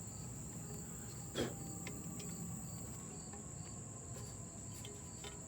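A short scuffing sound about a second and a half in, as the transmission pan is wiped clean, over a steady high-pitched tone.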